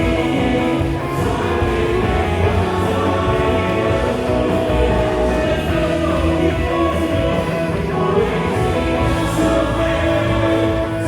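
Live contemporary worship band playing, with drums, bass, electric guitar and keyboard, and voices singing over it.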